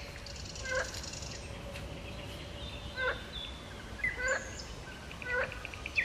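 Birds calling: a short call that falls in pitch, repeated several times a second or two apart, with higher chirps and a brief trill among it.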